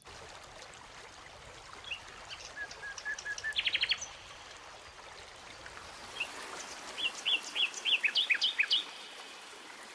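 Songbirds calling over the steady rush of a small woodland stream: a run of short notes ending in a quick trill about three and a half seconds in, and a phrase of chirps near the end.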